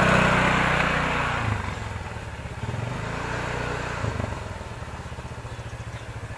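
A motor vehicle's engine idling with a steady low drone; it is louder in the first second or so, then settles lower for the rest.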